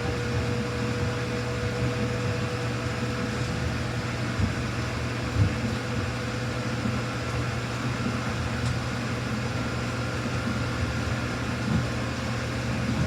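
Samsung front-loading washing machine running, a steady motor hum with a faint high whine over it and a few light knocks from the drum.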